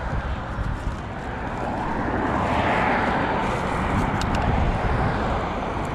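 Road traffic noise from the dual carriageway, with a vehicle passing that is loudest about halfway through.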